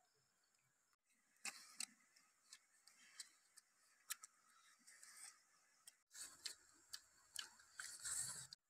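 Eating sounds: chewing, lip smacks and wet mouth clicks as grilled fish is bitten and eaten off a bamboo skewer, in short sharp ticks that come thickest near the end.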